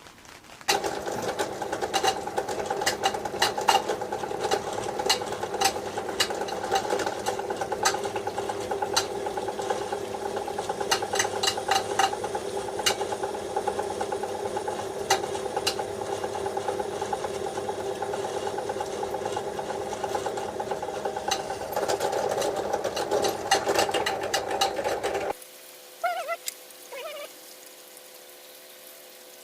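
Electric angle grinder's motor running steadily with a hum, many sharp ticks rattling over it. It stops abruptly near the end.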